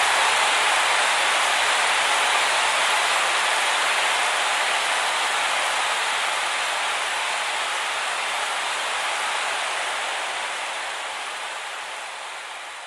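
Heavy rain pouring down, a dense, even hiss, slowly fading away toward the end.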